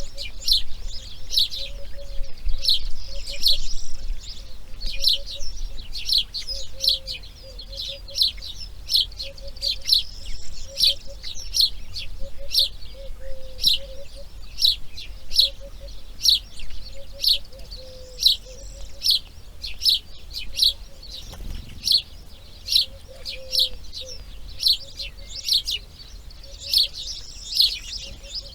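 Birds calling: a steady series of sharp, high chirps, about two a second, over a softer run of short, lower repeated notes.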